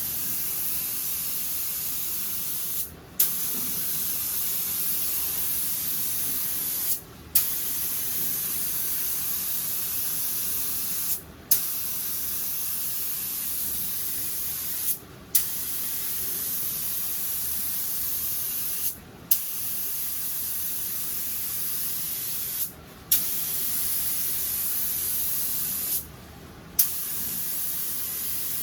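Air-fed paint spray gun spraying in steady passes of hiss about four seconds long, the trigger released briefly between them, each new pass opening with a sharp burst of air.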